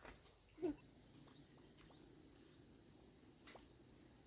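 Insects chirring steadily in a high, even drone, with a short pitched call under a second in and a few faint clicks.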